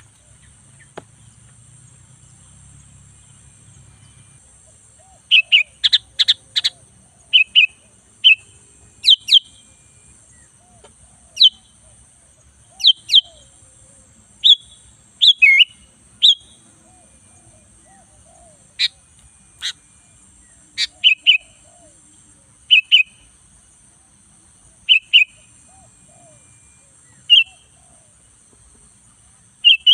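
Kutilang-style (sooty-headed bulbul) chirps: short, sharp, high calls, one to three at a time, coming every second or two after about five quiet seconds, over a steady faint high hiss.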